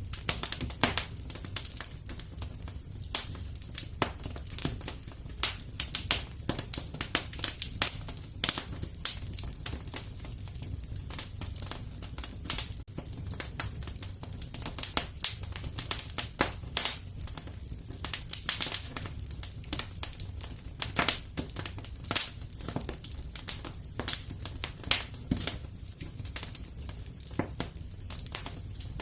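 Fire in a fireplace crackling, with many irregular sharp pops and snaps over a steady low rumble.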